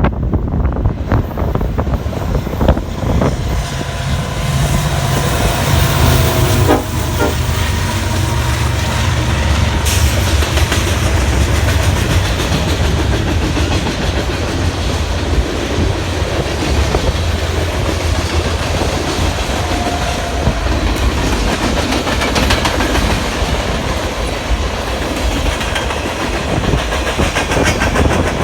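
BNSF freight train passing close by: diesel locomotives rumbling low and steadily from about three seconds in, with the cars' wheels clattering over the rail joints.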